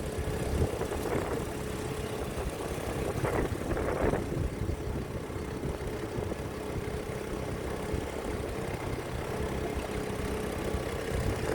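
A dinghy's outboard motor running steadily at low speed, a constant hum over a low rumble.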